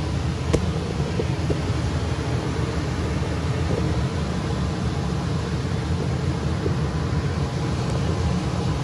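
Gas furnace running in heat mode, its blower and burners making a steady low rumble of rushing air, just after a new control board was fitted. A single sharp click comes about half a second in.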